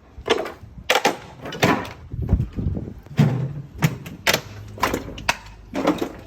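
A series of irregular knocks and clattering bangs, about a dozen in all, some with a low thud.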